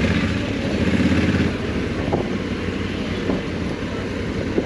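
Honda Africa Twin 1100's 1084 cc parallel-twin engine running at low speed, swelling slightly about a second in as the throttle opens, then easing back to a steady low hum.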